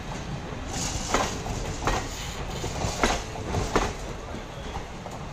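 Indian Railways passenger coaches rolling past over a steady low rumble, their wheels clacking over rail joints in pairs of sharp clicks.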